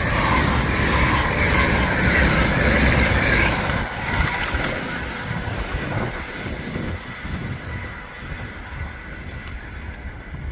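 LNER Class 801 Azuma electric train passing through at speed. The loud rush of wheels on rail and moving air lasts about four seconds, then fades steadily as the train moves away.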